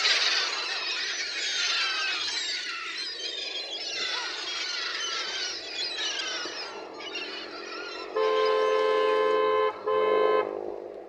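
A flock of chicks peeping constantly, many high chirps overlapping. Near the end a horn sounds twice, a long blast and then a short one, drowning out the chicks.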